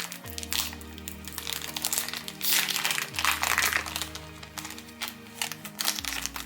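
Trading-card booster pack wrapper crinkling as it is handled and opened, in dense crackly bursts that stop near the end, over background music with slow, sustained chords.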